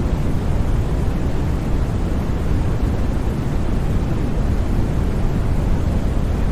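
Steady, unvarying white noise for sleep, weighted toward a deep low rumble with a softer hiss above. It has no breaks or changes.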